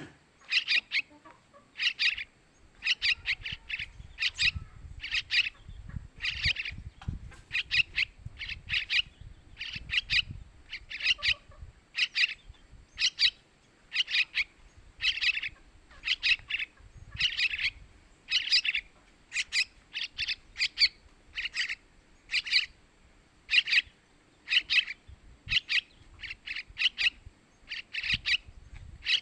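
Yellow-vented bulbul (trucukan) chick calling: short, high chirps repeated one or two a second, often in quick pairs or triplets. These are the calls of a young bulbul, of the kind played to lure an adult male in.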